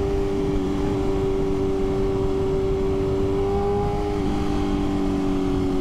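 2023 BMW S1000RR inline-four engine running steadily at highway cruising speed, with wind rushing past; the pitch drops slightly about four seconds in.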